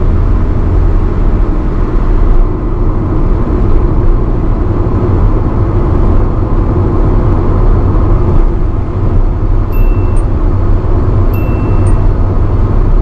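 1985 Nissan B12 Sunny driving on the highway, its engine and road noise running steadily. About three-quarters of the way through, a short high warning chime starts and repeats roughly every one and a half seconds.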